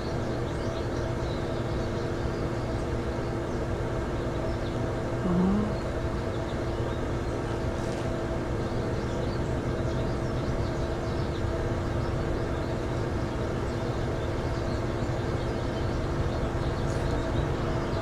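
Steady low mechanical drone with a constant hum, and one short rising sound about five seconds in.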